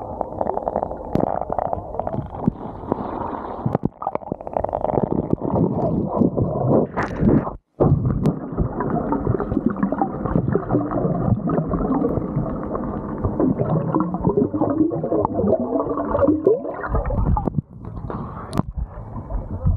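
Muffled gurgling and rumbling of water heard through a submerged camera, with scattered knocks and clicks.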